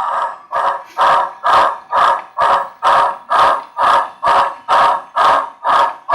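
Model steam locomotive sound decoder (Soundtraxx WOWSound steam) playing Challenger exhaust chuffs through a small speaker, a steady beat of about two chuffs a second.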